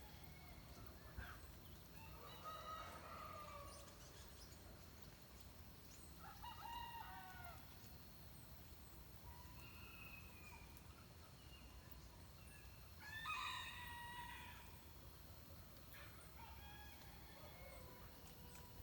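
A rooster crowing faintly several times, each crow lasting a second or two, the loudest about two-thirds of the way in. Small birds chirp thinly in between.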